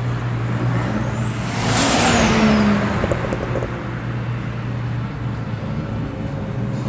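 A couple of Nissan Skylines driving out, engines running steadily. One passes close about two seconds in, with a swell of exhaust and tyre noise and a high whistle that rises and then falls.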